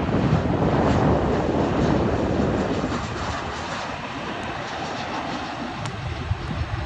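Jet airliner's engines passing close by, a loud rushing noise that fades after about three seconds.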